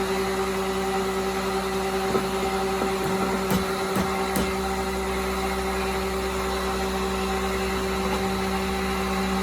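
An engine running steadily with an even, unchanging hum, and a few short knocks a couple of seconds in.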